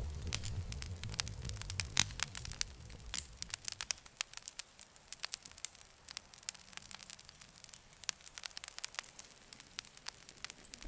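Wood campfire crackling, with many sharp pops and snaps. A low rumble under it drops away about four seconds in, leaving only the crackle.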